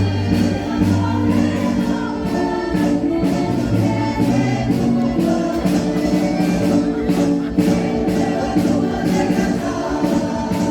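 A marcha popular song: a group of voices singing in chorus over band accompaniment with a steady beat.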